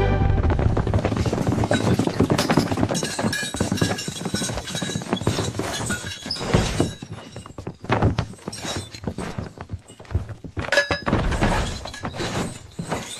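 Building work on a wooden house: a busy run of knocks, thuds and clattering, with a dense spell at the start and another a little before the end.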